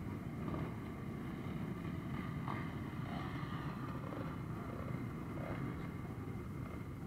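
Motorcycle engines idling and running at low revs, a steady low rumble.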